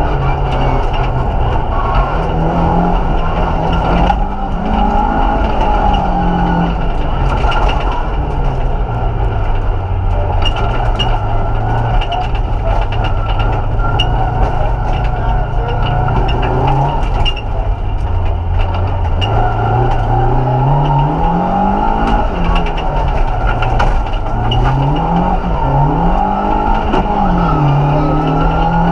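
Vauxhall Nova 1.6 8-valve four-cylinder rally engine heard from inside the cabin, revving up and dropping back through gear changes, over road noise and clicks from a loose gravel surface. The engine note holds steadier through the middle, then rises and falls quickly several times near the end.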